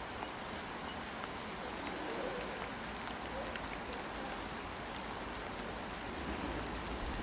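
Steady rain falling on a station platform and tracks, with scattered drop ticks. A faint low rumble grows slightly near the end.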